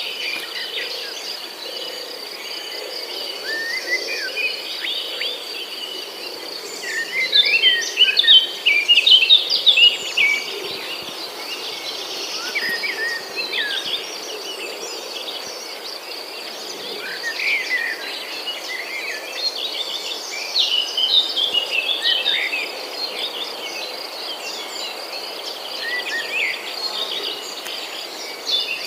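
Many small birds chirping and twittering at once, busiest about seven to ten seconds in and again around twenty seconds, over a thin steady high tone.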